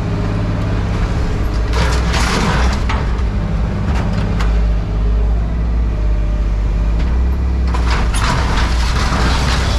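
Engine of heavy scrap-handling equipment running steadily, with two rough, noisy bursts of scrap being worked, about two seconds in and again near the end.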